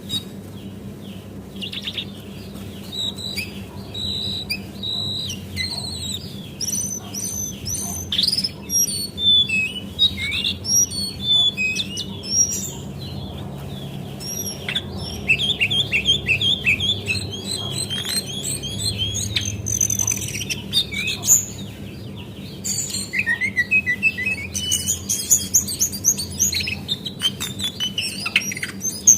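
Female cingcoang (jongkangan coklat) singing: rapid runs of short, high chirps and trills, repeated over and over, with a steady low hum beneath.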